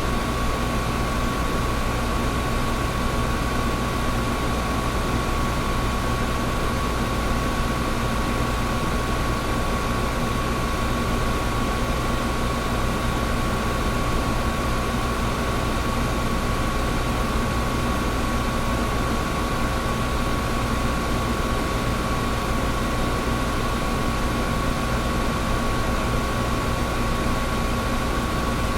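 Air conditioner running steadily: an even rush of air over a low hum, with a thin steady whine.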